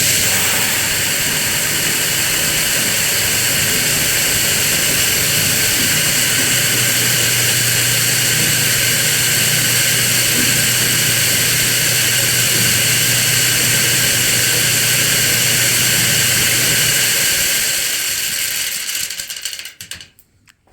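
Shelled corn rushing out of a grain bin into a container, with a steady motor hum underneath. The hum stops about 17 seconds in and the flow of grain trails off soon after.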